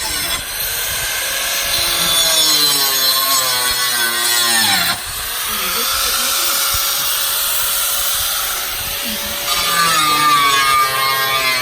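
Electric power saw cutting, its motor pitch sagging as the blade bites into the work. About halfway through it runs free at a steady pitch for a few seconds. Near the end it bogs down under load again.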